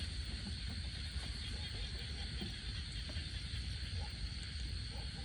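Steady outdoor ambience: a constant high-pitched insect drone, such as crickets or cicadas, over a low rumble, with a few faint ticks.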